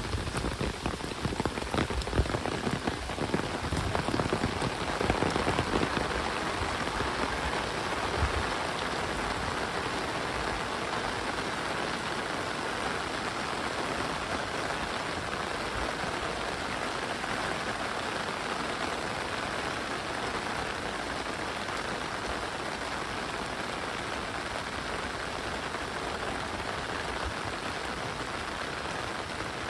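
Heavy rain falling steadily as an even, dense hiss. During the first several seconds it is louder and more uneven, with low thuds, before settling to a steady level.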